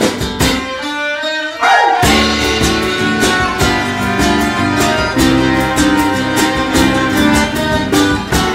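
Live band music led by strummed acoustic guitar and violin. About half a second in the bass and drums drop away, leaving a rising slide. At about two seconds the full band with drums and bass comes back in.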